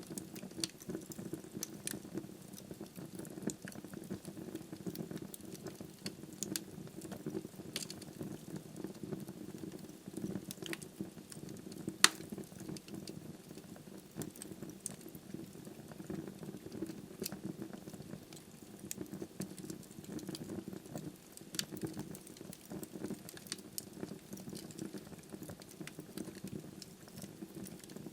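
Wood fire burning in a fireplace: a steady low rush of flame with frequent small crackles and pops from the logs, and one sharp, much louder pop about twelve seconds in.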